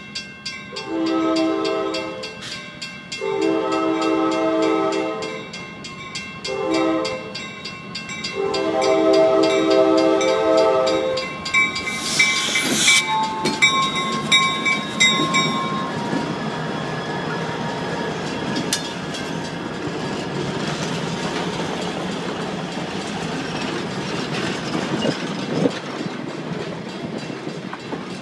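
Diesel locomotive air horn sounding the grade-crossing signal: two long blasts, a short one and a final long one, over the evenly repeating clang of the crossing-signal bell. After a brief burst of hiss, the EMD GP30 locomotive runs close past, followed by passenger coaches rolling by with a steady rumble and the clicking of wheels over rail joints.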